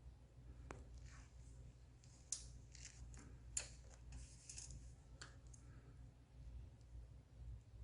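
Compressed firewood burning, giving faint scattered crackles and a few sharper snaps, two of them louder about two and a half seconds in, over a low steady hum.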